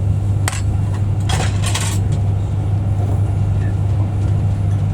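Steady low rumble of a Class 390 Pendolino electric train running, heard inside the passenger saloon. A few short clinks, like crockery, come about half a second and about a second and a half in.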